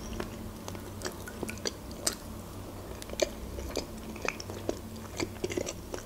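A person chewing a mouthful of soft creamy salad close to the microphone: irregular small mouth clicks and smacks.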